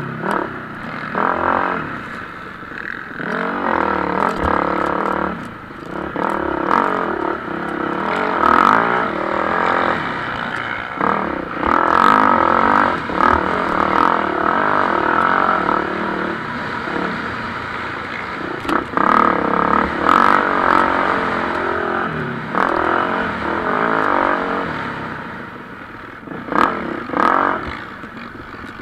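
Several motocross bikes racing, their engines revving up and dropping off again and again as they pass through corners and jumps, in repeated loud surges.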